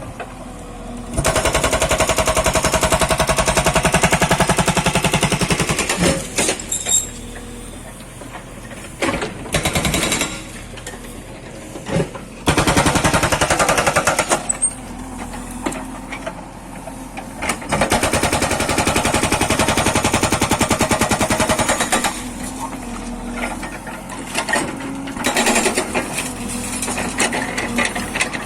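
Hydraulic breaker on a Tata Hitachi Shinrai excavator hammering in rapid, even blows. It runs in three long stretches of several seconds each, starting about a second in, around twelve seconds in and around eighteen seconds in, with short bursts and quieter gaps between.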